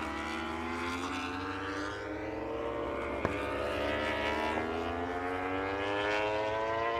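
MotoGP racing motorcycle engines running at high revs, their pitch climbing slowly and steadily, with a sharp click a little past three seconds.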